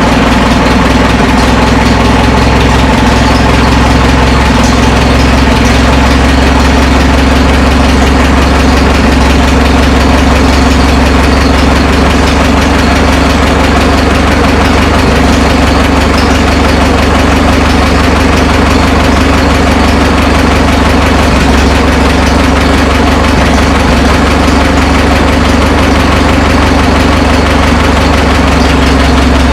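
Minneapolis-Moline tractor's gasoline engine idling steadily, freshly started after sitting since last year.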